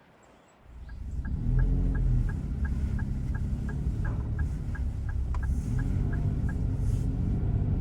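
A car engine running, setting in about a second in with a steady low rumble, with an even ticking about three times a second over it.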